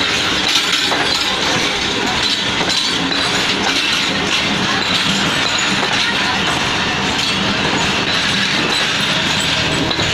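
Passenger train running on the track, a steady loud rumble and rattle of coaches and wheels.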